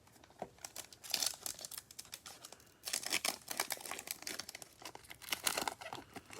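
A Panini Prizm basketball card pack's plastic wrapper being torn open and crinkled by hand, in an uneven start the breaker calls a terrible opening. The crackling pauses briefly about halfway through, then comes back denser.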